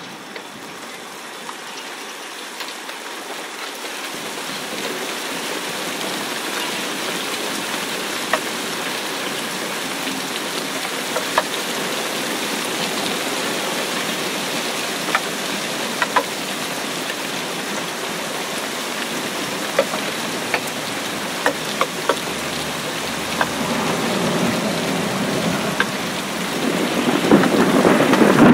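Rain falling into a shallow puddle over grass: a steady patter with single drops plinking now and then. It slowly grows louder and swells further near the end.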